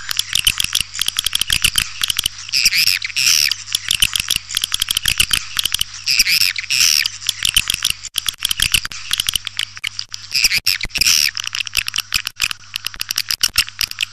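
Swiftlet call (lure) sound: a dense, unbroken twittering of many swiftlet chirps mixed with rapid sharp clicks, the kind of call played to draw swiftlets into a nesting house. A steady low hum runs underneath.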